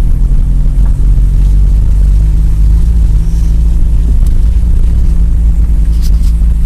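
Car engine and tyre noise heard from inside the moving car: a steady, loud low drone.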